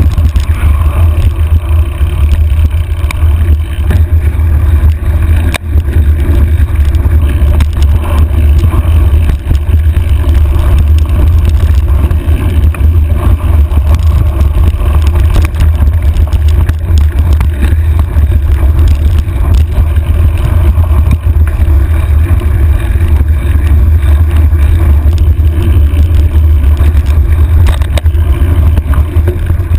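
Loud, steady low rumble of a trail ride picked up by a handlebar-mounted camera: riding noise and buffeting, with no breaks.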